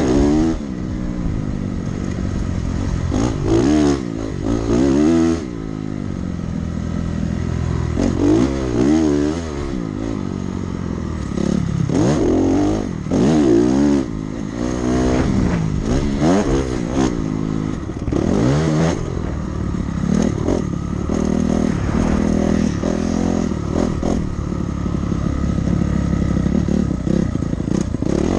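Dirt bike engine ridden hard around a motocross track, the throttle opening and closing over and over: the pitch climbs under load, then drops back, every second or two.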